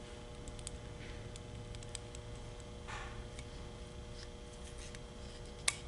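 Faint scattered clicks and light taps of a tool working the valves in a CVT valve body, with a sharper click near the end, over a steady low hum.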